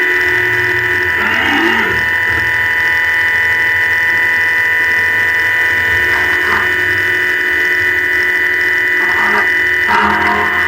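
High-speed CNC milling machine running: a steady, high spindle whine made of several held tones, with a few short rasps of cutting noise.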